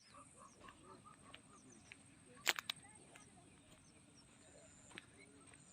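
Faint morning birdsong: scattered short chirps over a steady thin high tone. Three sharp clicks in quick succession come about two and a half seconds in, and a single click comes near the end.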